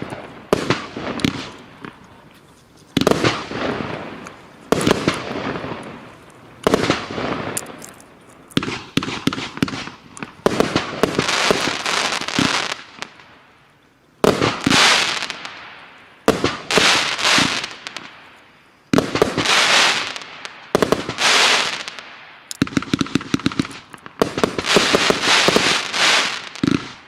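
Fireworks firing a long series of shots, one loud burst about every one to two seconds, many of them breaking into crackling, with a denser run of crackle near the end.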